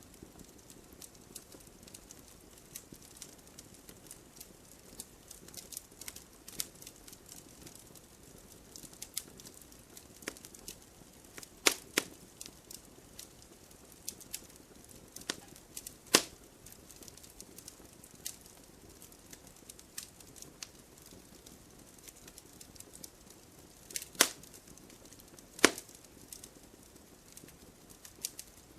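Wood fire crackling in a fireplace: a steady scatter of small ticks and snaps over a soft hiss, with a few louder sharp pops, two of them close together near the end.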